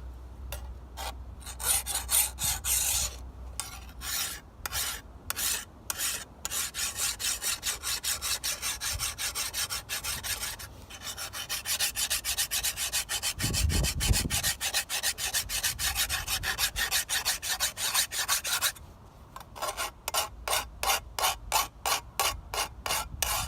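Hand file scraping along the steel edge of an old sickle blade in quick, repeated strokes, about four a second, sharpening it; a dull bump about halfway through.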